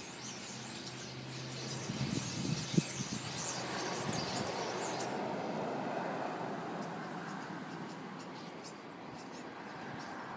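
Many birds chirping busily over a steady rushing background noise, with a single thump about three seconds in; the chirping thins out about halfway through.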